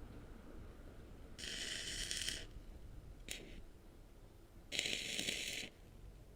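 Stick arc welding powered by three car batteries in series: short crackling, hissing welds of about a second each, twice, with a brief arc strike between them.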